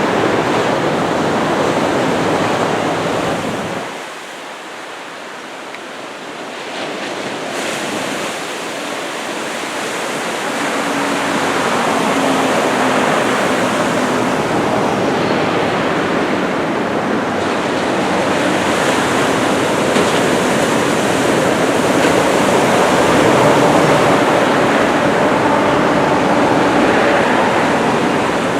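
Ocean surf from a typhoon swell, waves breaking and washing in a continuous rush, with low wind rumble on the microphone. The sound eases briefly about four seconds in, then swells back up.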